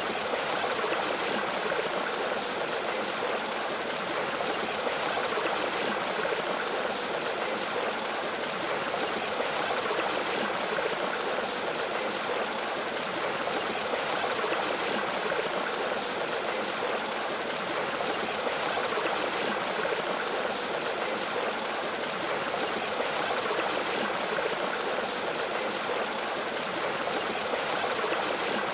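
Mountain stream flowing steadily over rocks and a small waterfall: an even, continuous rush of water.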